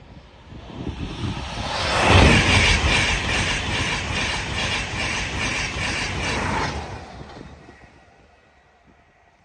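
LNER InterCity 225 electric express (Class 91 locomotive and Mark 4 coaches) passing at speed: a rushing roar that builds over a second or two, stays loud with a regular beat as the wheels of coach after coach go by, then falls away quickly after about five seconds.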